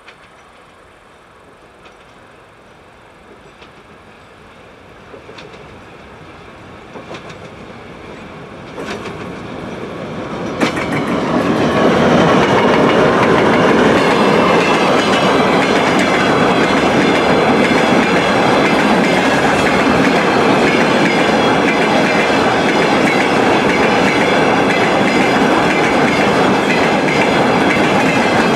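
TEM7 diesel shunting locomotive approaching and passing close, growing steadily louder over about ten seconds with a few sharp clicks, then a loud, steady rumble of a freight train of open wagons rolling by on the rails.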